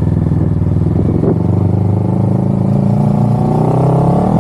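Motorcycle engine running at low revs, then pulling away with its pitch rising steadily, with a short click a little over a second in.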